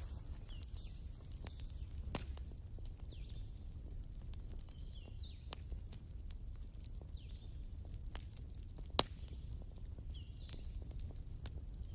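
Wood fire crackling, with irregular sharp pops (the loudest about 9 seconds in) over a steady low rumble. Short high chirps sound now and then.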